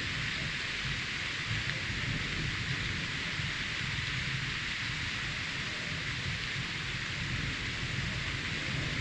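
Steady rain falling in a thunderstorm, an even hiss with no distinct thunderclap.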